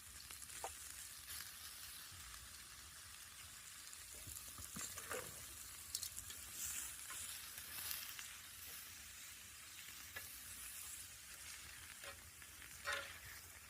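Stir fry of peppers, onions and mushrooms with barbecue sauce sizzling steadily in a hot pan, with a few brief scrapes of a utensil stirring it.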